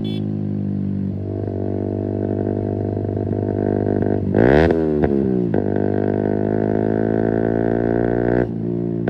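Keeway RKF 125's single-cylinder engine through an open Mivv exhaust with the dB killer removed, running at steady revs while riding. About four seconds in, it revs up sharply, at its loudest, then falls back. Near the end the sound drops suddenly as the throttle is closed.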